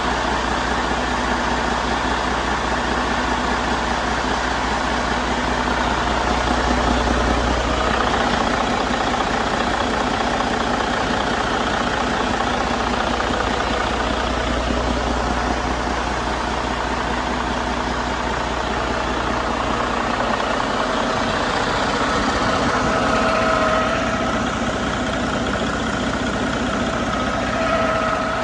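2014 Detroit Diesel DD15 14.8-litre inline-six diesel engine running steadily. Its low drone shifts about eight seconds in and again around twenty seconds, and a faint whine rises above it in the last several seconds.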